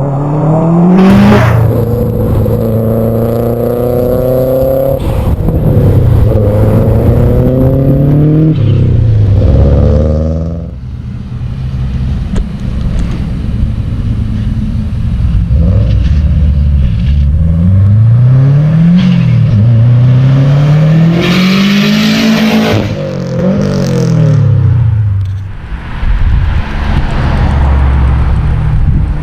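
Subaru Impreza WRX STI's turbocharged flat-four engine accelerating through the gears: the revs climb and drop back at each upshift, over and over. Through the middle it runs lower and steadier before pulling hard again.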